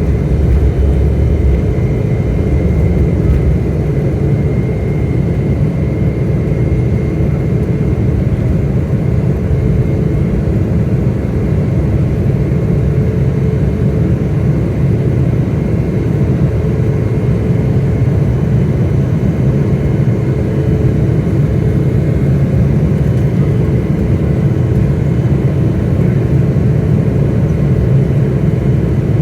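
Airliner climbing after takeoff: a steady, loud rumble of engines and rushing air, with a faint steady whine over it.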